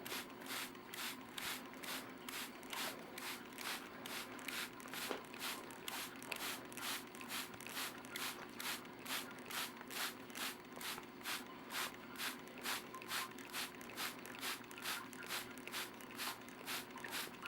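Hand-pumped trigger spray bottle misting water in quick, even squirts, about three hisses a second, over a steady faint hum.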